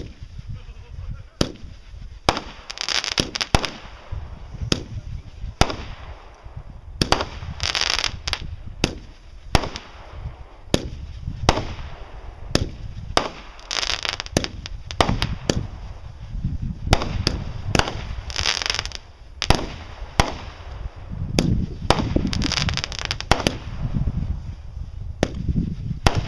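Aerial fireworks going off: a rapid, irregular string of sharp bangs from bursting shells and salutes, with a brief stretch of hissing about every five seconds.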